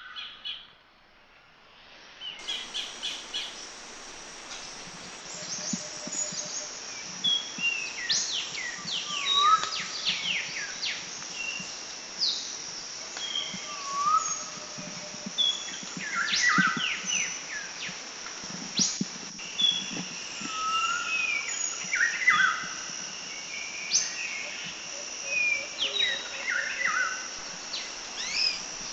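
Several birds calling with short whistles, chirps and rising and falling notes, over a steady high-pitched insect drone that starts about two seconds in.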